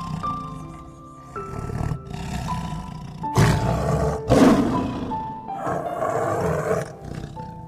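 A big cat roaring in a few loud, rough bursts about halfway through, over background music with a slow melody.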